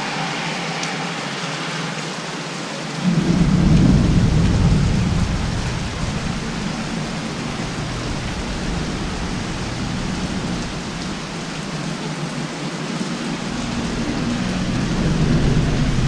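Heavy rain pouring steadily in a thunderstorm. About three seconds in a deep rumble breaks in suddenly and fades over the next few seconds, and another low rumble builds near the end.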